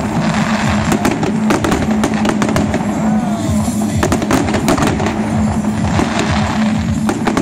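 Fireworks display: aerial shells bursting in quick, irregular bangs and crackles over a steady low hum.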